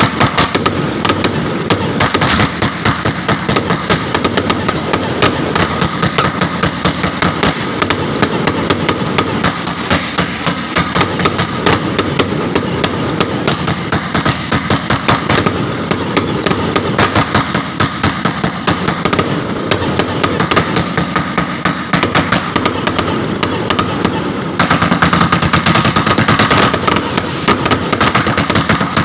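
A long string of firecrackers going off in a rapid, unbroken crackle of bangs, growing denser and louder near the end.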